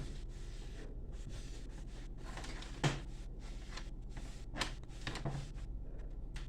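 A few scattered short clicks and light knocks over a steady low electrical hum.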